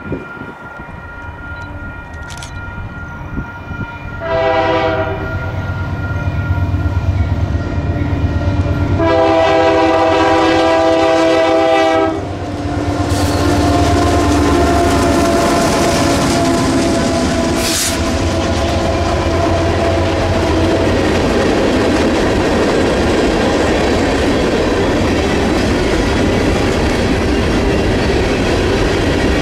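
Union Pacific freight train with diesel locomotives approaching and sounding its multi-note air horn: a short blast about four seconds in, then a longer blast of about three seconds. The lead locomotives then pass with a deep engine rumble, and a string of covered hopper cars rolls by with steady wheel-on-rail noise and clickety-clack.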